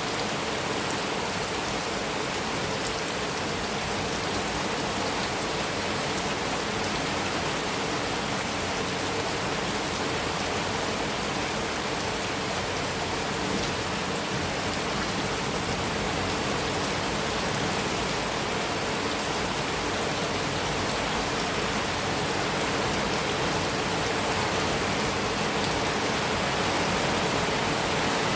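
Heavy rain falling steadily on a metal roof, an even hiss of drops with no thunder.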